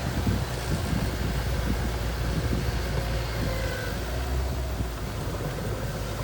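Small bulldozer's engine running steadily with a low, even drone.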